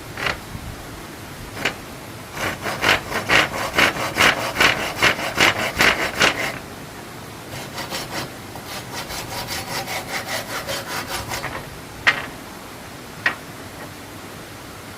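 Hand saw cutting wood in quick back-and-forth strokes, about three a second, in two runs, the second quieter. A few single sharp knocks come before and after the runs.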